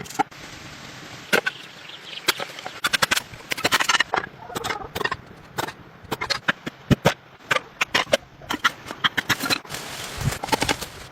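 Irregular knocks and taps, some in quick runs, with short pauses between.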